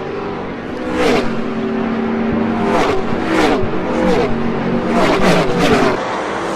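NASCAR stock cars' V8 engines at full throttle, a string of cars passing one after another, each engine note dropping in pitch as it goes by.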